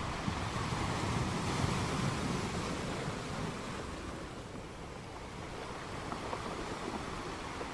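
Sea surf washing onto a shore: a wave swells up a second or so in and then ebbs away, and the surf builds again near the end.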